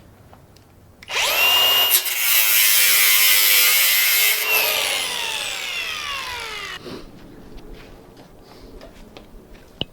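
Angle grinder started up with a rising whine, cutting for about three seconds, then released and spinning down with a falling whine that fades out near the middle.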